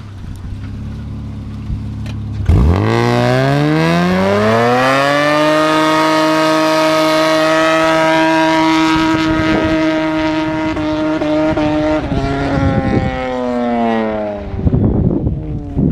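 Honda V6 through custom stainless headers, a straight pipe and a Cherry Bomb resonator, revved hard from idle: the pitch climbs steeply, is held high and steady for several seconds, then falls back toward idle, with a few sharp cracks from the exhaust near the end.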